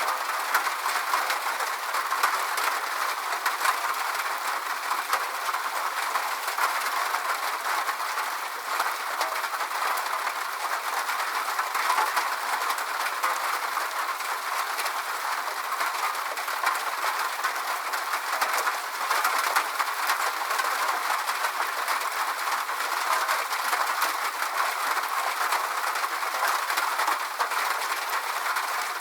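Steady rain falling: an even hiss dotted with many small drop ticks, with no deep rumble beneath it.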